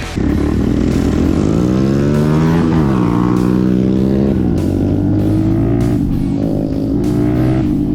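Mini motorcycle engine accelerating, its pitch rising for a couple of seconds, dropping suddenly at an upshift about three seconds in, then holding a steady cruise.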